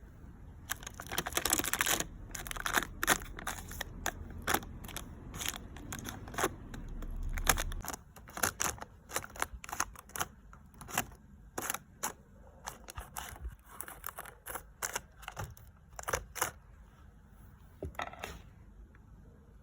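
A long run of irregular sharp clicks and knocks, as of objects being handled and set down, with a dense rustling burst about a second in. A low hum under it stops about eight seconds in.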